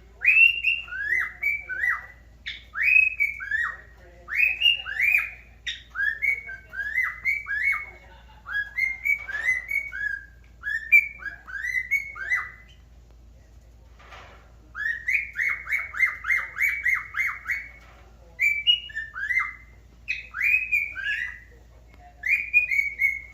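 Cockatiel whistling its song: phrases of clear, short, downward-gliding whistled notes, with a pause about halfway through, then a quick run of repeated notes.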